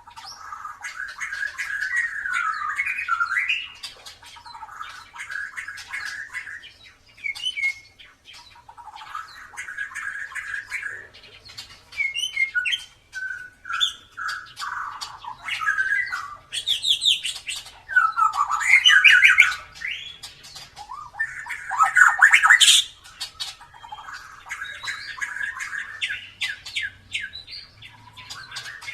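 White-rumped shama (murai batu) singing continuously: a long, varied run of whistled phrases, rapid trills and sharp clicks, with a few loud sweeping bursts in the second half.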